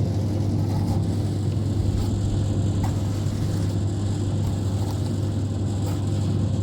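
An engine running steadily, a low constant drone that does not change in pitch or level, with a few faint clicks over it.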